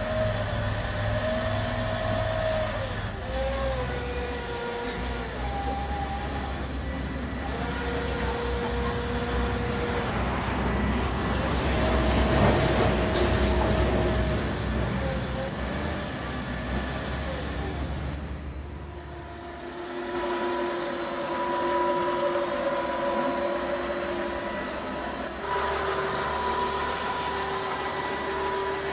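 Motors and gearing of a homemade 1/5-scale RC articulated dump truck running, a whine that shifts in pitch as the speed changes and holds steadier from about twenty seconds in.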